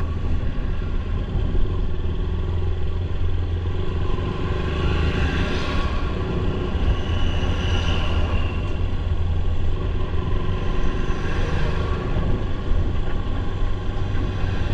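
Motorcycle running steadily while being ridden, a constant low drone with an even hiss of road and wind noise over it.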